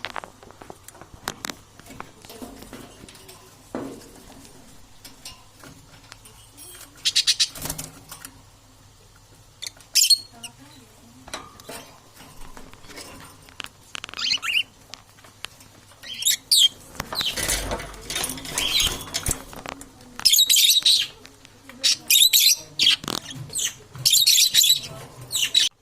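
Parrots calling in separate harsh, squawking bursts, sparse at first and coming thick and fast through the second half.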